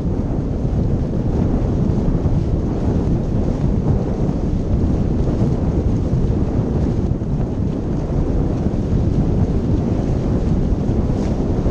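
Strong wind buffeting the microphone, a steady loud low rumble.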